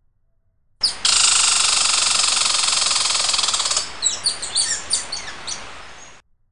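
Birdsong: a dense buzzy trill for about three seconds, then a run of separate quick, falling chirps that fade out. It starts and stops abruptly.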